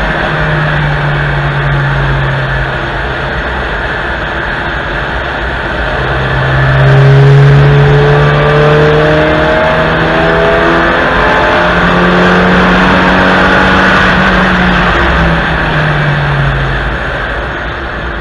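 Onboard sound of a fourth-generation Honda Civic hatchback's 66 kW four-cylinder engine pulling on a race track, its pitch climbing through the middle of the stretch, under heavy wind and tyre noise.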